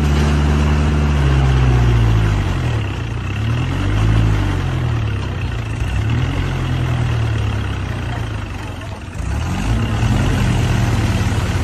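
Mahindra 575 tractor's diesel engine running, its speed rising and falling a few times. It eases off about nine seconds in, then picks up again.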